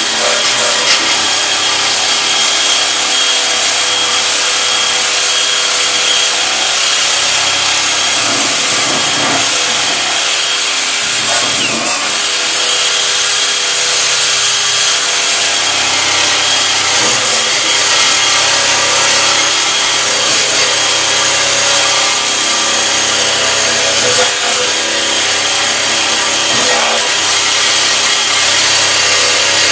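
Electric drill with a rotary wire brush running steadily, the wire scrubbing against the steel of a tailgate to strip off old glazing sealant and paint.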